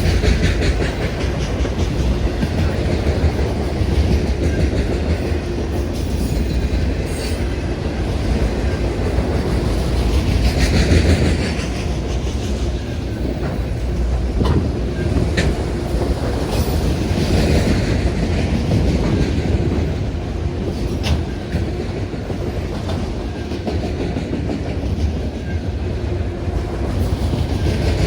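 CN freight train's cars rolling past, a steady rumble with the wheels clicking over rail joints now and then.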